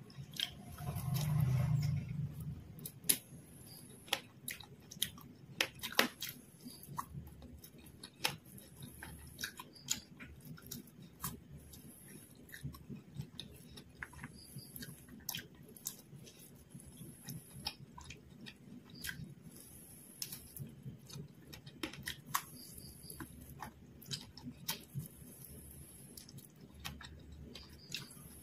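Close-miked chewing and mouth sounds of a person eating fried quail biryani by hand, with many sharp clicks and smacks scattered throughout. A brief louder low murmur comes about a second in.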